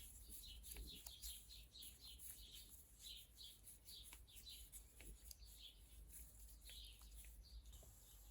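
Faint small-bird chirping: a quick run of short, high notes repeated a few times a second, with a few soft clicks.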